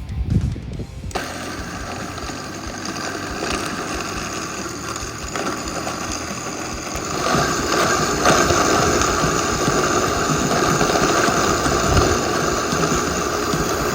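Countertop blender motor running, grinding pork rinds into crumbs; it starts about a second in and gets louder about seven seconds in.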